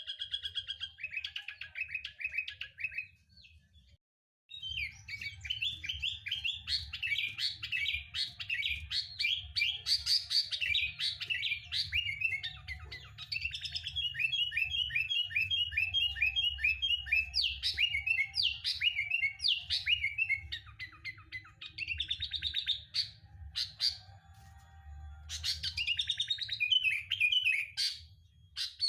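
Sooty-headed bulbul (kutilang) singing: fast runs of chirps and short whistled notes, breaking off for about a second around four seconds in. A faint low hum runs underneath.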